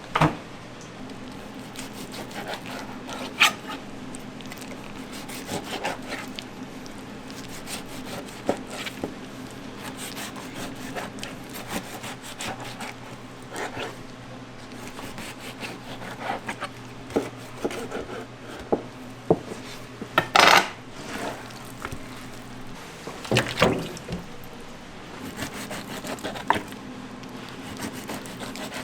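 Kitchen food preparation: repeated rubbing and scraping against wood with scattered light clicks, a few louder knocks and clatters, and a steady low hum underneath.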